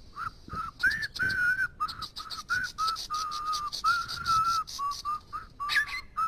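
A bird whistling a rapid series of short, clear notes, each slightly rising or falling, with higher chirping alongside them.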